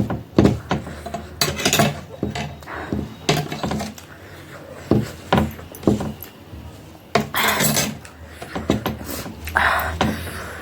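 Eating noodles from a dish with a fork: the fork clicking and scraping against the dish, with mouth noises of slurping and chewing in a few longer noisy stretches.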